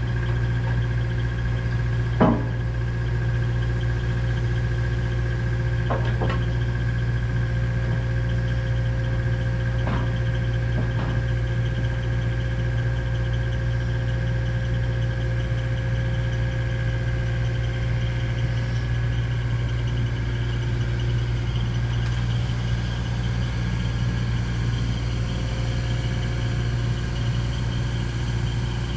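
A machine engine running steadily at an even idle-like pace, with a sharp knock about two seconds in and a few fainter clunks later.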